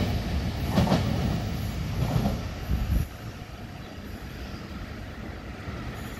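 Taiwan Railway EMU800-series electric train pulling out: wheel-on-rail rumble with a few clacks as the rear car passes close. About three seconds in the sound drops sharply, leaving a faint rumble as the train runs off into the distance.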